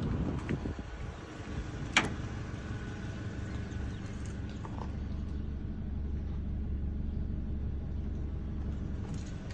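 A vehicle engine idling steadily: a low, even hum, with a single sharp click about two seconds in.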